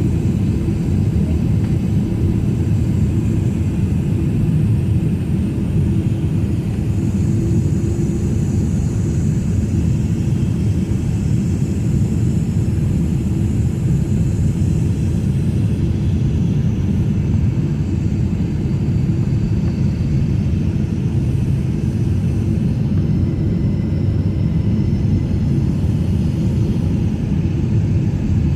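Jet airliner engines with a steady, loud rumble, and a faint high whine that fades out about halfway through.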